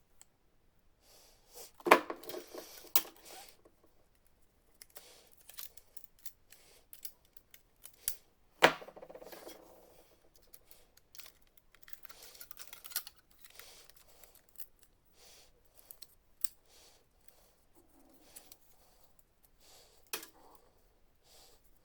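Parts of an opened laser printer being handled: scattered small clicks and rattles, with two louder sharp knocks that ring briefly, about two and about nine seconds in.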